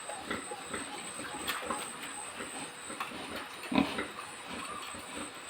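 Pigs in a pen grunting and oinking in a busy, irregular stream of short calls, with one louder call about two-thirds of the way in.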